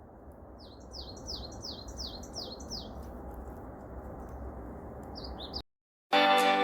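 Wild bird singing a quick series of about eight downward-sliding high notes, a few more near the end, over a steady low outdoor rumble. The sound cuts off abruptly and acoustic guitar music starts about half a second later.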